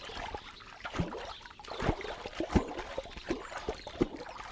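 Water gurgling and bubbling, with irregular small pops.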